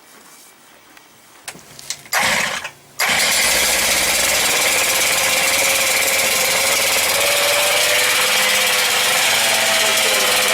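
An engine started: a short burst about two seconds in that dies away, then it catches about a second later and runs loud and steady.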